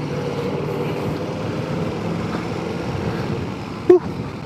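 Motorcycle engine idling steadily, with a short sharp sound near the end.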